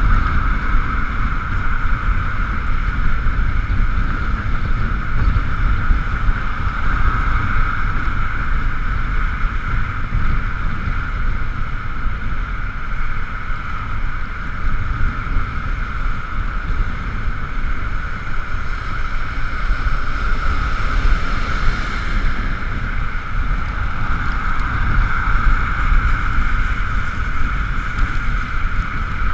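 Ekoway ML5000 electric motorcycle riding in the rain: a steady high whine from the electric drive over constant wind rumble on the camera and hiss from the wet road.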